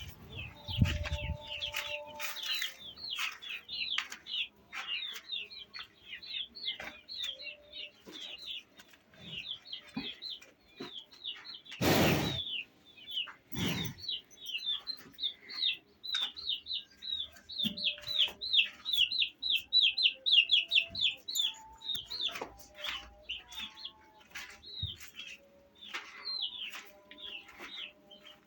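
Small birds chirping in a long, rapid run of short high chirps, densest a little past the middle. A loud brief rustle about twelve seconds in and a smaller one shortly after.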